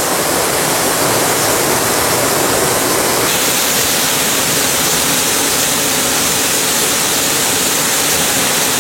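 Waterfall roaring steadily: a loud, even rush of falling water, its tone shifting slightly about three seconds in.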